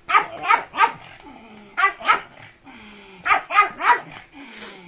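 A dog barking in three short runs: three barks, then two, then three, with pauses of about a second between runs.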